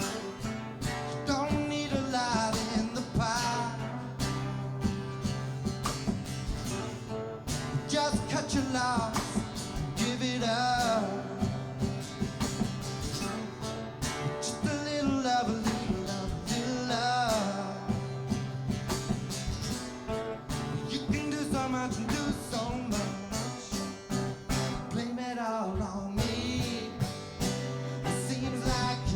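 Acoustic guitar playing a song, with a voice singing long, wavering notes without clear words.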